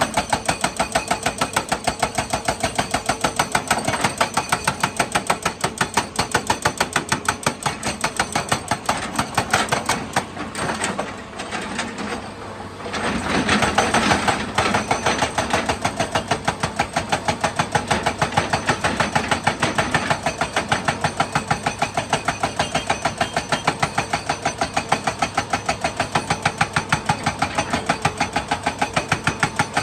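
Excavator's diesel engine running with a fast, even, rhythmic clatter, dipping briefly about eleven seconds in before carrying on.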